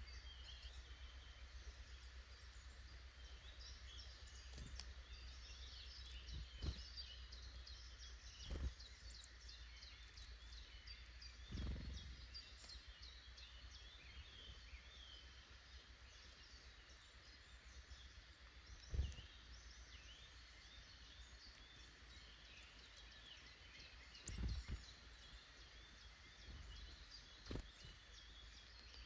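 Faint woodland birdsong: many small birds chirping and singing at once, over a steady low rumble. A few dull thumps come through, the loudest about two-thirds of the way in.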